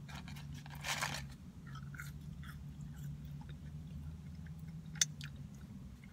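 A person chewing a bite of burger close to the microphone, with small wet mouth clicks and one sharp click about five seconds in. There is a brief rustle about a second in, and a steady low hum runs underneath.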